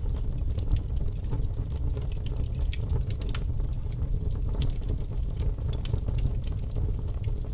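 Campfire burning: wood crackling and popping in irregular sharp snaps over a steady low rumble.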